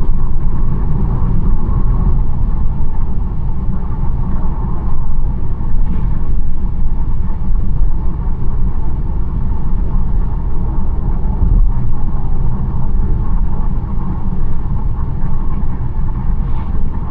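BMW 1 Series driving along a road: a steady low rumble of tyre and engine noise. Two faint brief swishes come about six seconds in and near the end.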